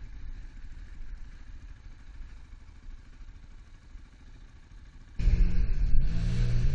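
Motorcycle engine idling quietly with a low, steady rumble. About five seconds in it cuts suddenly to a much louder personal watercraft engine running steadily, with the rush of water spray over it.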